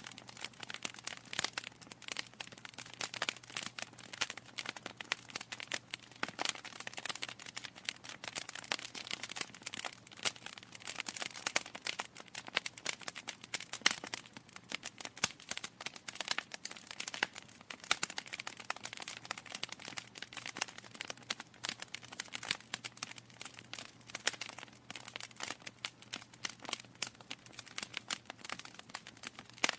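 Wood fire crackling in a fireplace: a dense, continuous run of sharp pops and snaps from burning logs, some louder than others.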